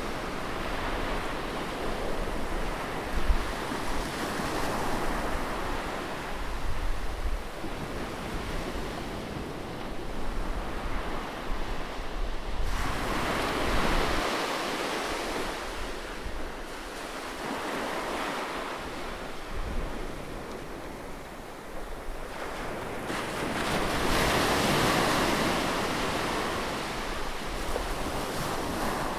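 Ocean waves breaking and washing in, the surf swelling and easing every several seconds. Wind buffets the microphone with low rumbles.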